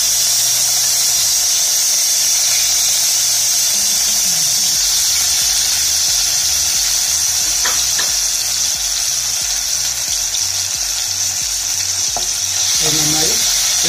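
Crushed ginger and garlic frying in hot sunflower oil in a nonstick pan: a loud, steady sizzle that starts suddenly as they go in. A few light taps come as a wooden spatula stirs them.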